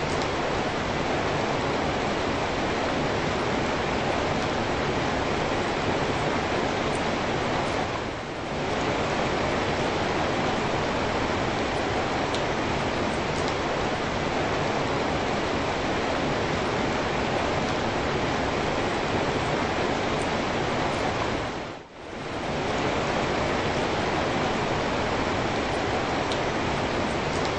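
Steady rain falling, an even hiss with no breaks except two brief dips in loudness, about a third of the way in and again near the end.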